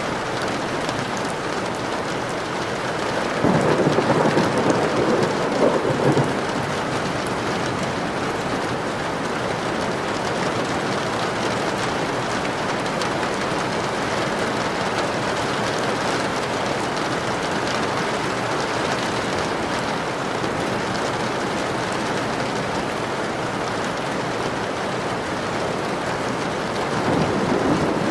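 Steady rain with thunder, which swells louder about three seconds in and again near the end.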